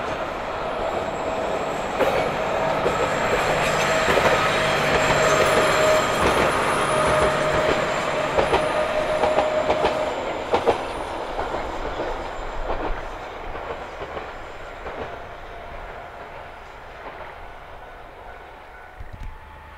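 Isumi Railway's yellow diesel railcars running past: engine and wheel noise peak in the first few seconds, the wheels click over rail joints, and the sound dies away gradually as the train draws off.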